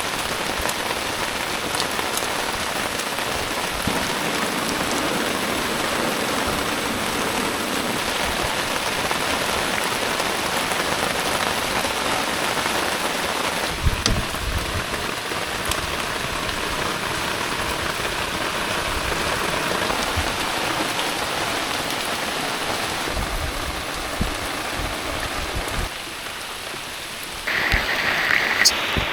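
Heavy rain falling steadily, a dense hiss that shifts abruptly in tone a few times. Near the end a louder, different patch of noise with a sharp click takes over briefly.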